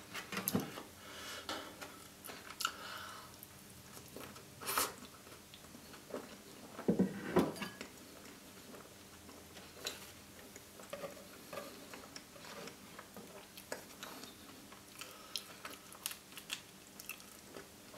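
Close-miked mouth sounds of someone eating a Maxibon ice cream sandwich, biting and chewing its plain biscuit side: soft wet chewing with scattered small crunches and clicks. There are louder bites about five and seven seconds in, and a run of small crunches near the end as a fresh bite is taken.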